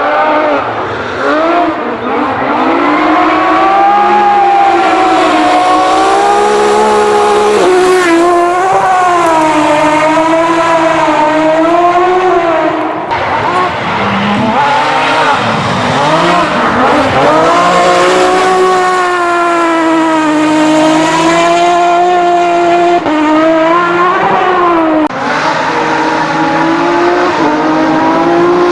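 Rally car engine revving hard, its pitch rising and falling again and again as the throttle is worked and gears change, with a few sudden breaks at the shifts. Tyre squeal and skidding noise run under the engine.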